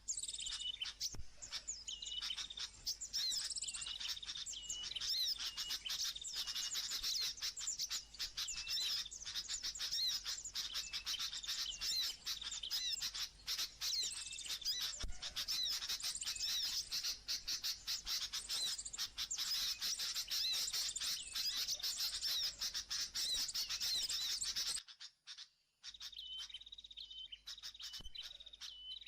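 Wild birds chirping and calling in many short, repeated high notes. Near the end the sound drops out for about a second and the chirping comes back fainter.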